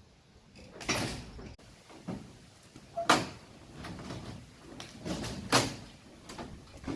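Steel being handled during unloading from a truck: a series of sharp clanks and scrapes a second or two apart, the loudest about three and five and a half seconds in.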